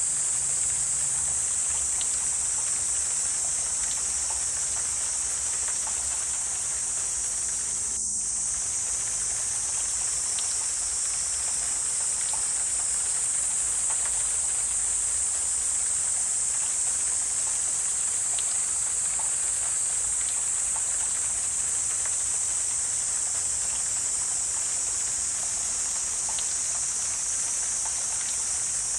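Steady, high-pitched drone of an insect chorus, with faint scattered ticks and a brief dip about eight seconds in.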